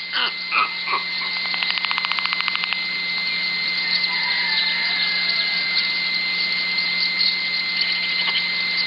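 White stork bill-clattering: a fast, even run of clicks lasting about a second, over a steady high whine and low hum.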